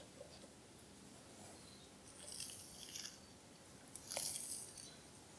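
Quiet room with faint rustling, a few small scuffs and a soft click a little past the middle.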